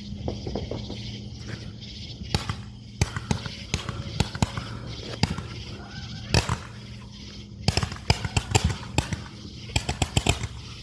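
Consumer fireworks going off: a run of sharp, irregular pops and crackles, thickest from about 8 seconds in.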